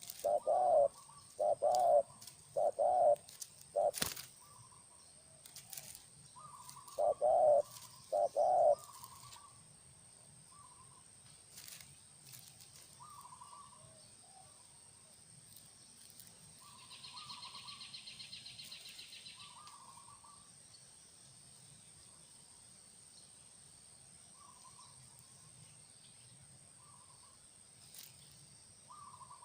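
Spotted dove cooing: a run of loud, low repeated coo notes through the first nine seconds, then scattered quieter, higher calls. A brief buzzing trill comes about midway, over a faint steady high whine.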